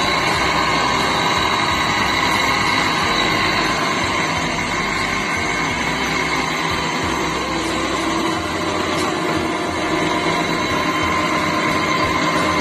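Salvaged washing-machine motor, one of its phases faulty, running steadily and turning a small rotating post, a constant whine over a mechanical hum.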